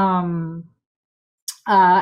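Only speech: a woman's voice draws out the end of a word for about half a second, then there is a short silent pause before she speaks again near the end.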